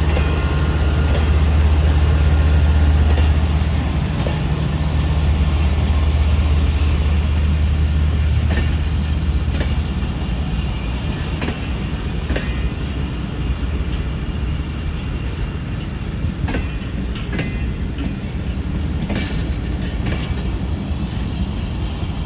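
Passenger train departing and rolling past: a low diesel drone fades over the first few seconds, then the coaches roll by with repeated clacks of wheels over rail joints.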